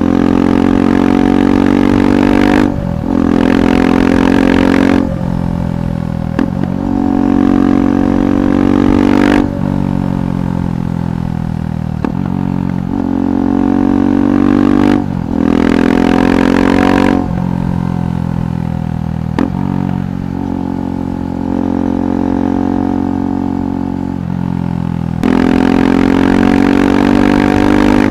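KTM 390 Adventure's single-cylinder engine through a Red Rooster aftermarket exhaust, heard from the rider's seat while riding. It accelerates and eases off several times, getting suddenly louder each time the throttle opens.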